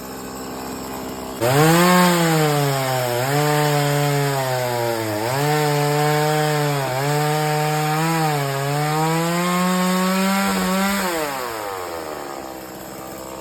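Two-stroke chainsaw cutting wood. Its engine idles, jumps to full throttle about a second and a half in, dips in pitch again and again as the chain bites, then falls back to idle near the end.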